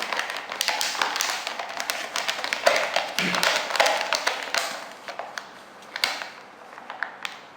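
Rustling and light tapping of paper and a cup being handled and wiped dry by hand, busiest in the first five seconds and sparser after.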